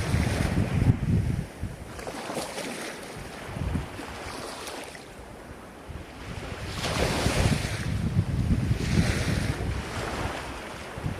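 Ocean waves breaking and washing in, a hissing surge every two to three seconds. Wind buffets the microphone with a low rumble in the first second or so.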